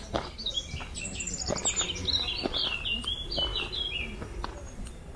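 A songbird singing one long, fast phrase of high chirping notes that step up and down in pitch, lasting about three and a half seconds.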